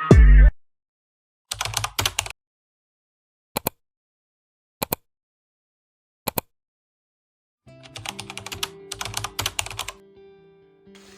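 Clicks like keys being typed: a short run of clicks, then three single clicks about a second and a half apart, then a longer, quicker run with soft steady tones beneath it near the end.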